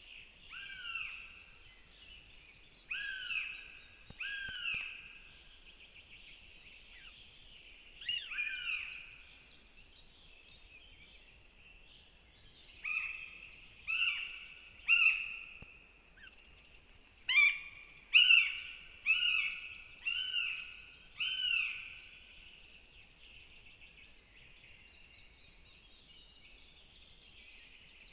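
Northern goshawks calling at the nest: short, arched, ringing call notes repeated in several bouts, the loudest and densest run about two-thirds of the way in, over a faint steady outdoor background.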